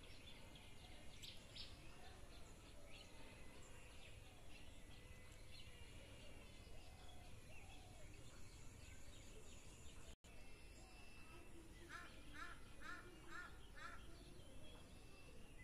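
Faint outdoor ambience with a steady low background noise and distant birds calling. Near the end a bird gives a run of five short calls, about two a second. The sound drops out briefly about two-thirds of the way through.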